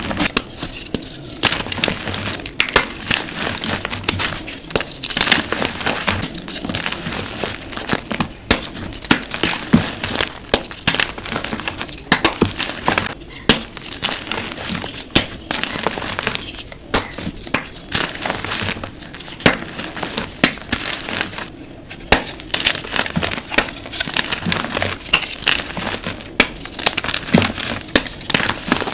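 Blocks of gym chalk being crushed, a dense run of dry, crunchy crackling with frequent sharp cracks as the blocks crumble into powder.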